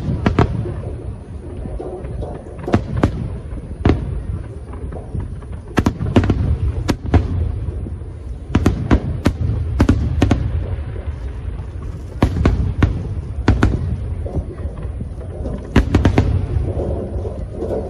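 Fireworks display: aerial shells bursting one after another, many sharp bangs in clusters over a continuous low rumble.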